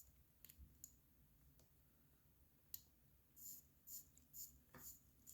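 Faint, scattered small clicks and light clinks of a wristwatch being handled on a workbench, with a short run of about five soft ticks a little after the middle.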